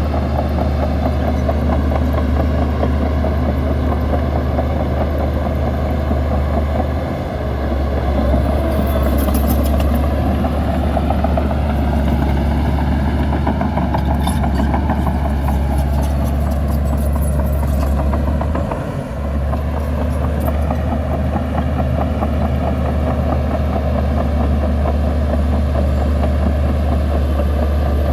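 Diesel engine of heavy earthmoving machinery running steadily with a deep, constant hum. The level dips briefly twice, about a quarter and two thirds of the way through.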